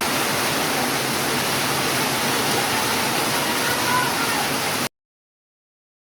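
Steady rush of falling water, an even hiss with little low rumble, that cuts off suddenly into silence near the end.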